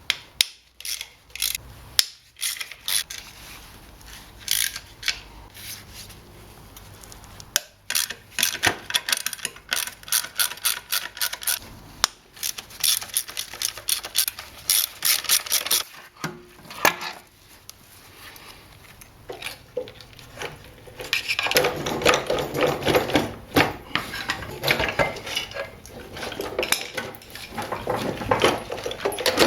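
Ratchet wrench clicking in repeated bursts of rapid strokes, with clinks of metal tools between, as bolts are undone to separate the gearbox from the engine.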